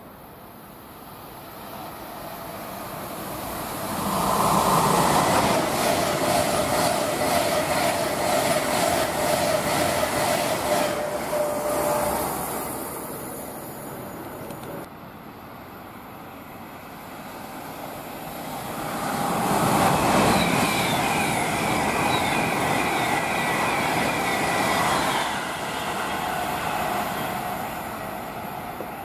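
Avanti West Coast Class 390 Pendolino electric train passing through at speed: rushing wheel and air noise with a steady whine swells about four seconds in, holds for several seconds and fades. A second train passes the same way about twenty seconds in.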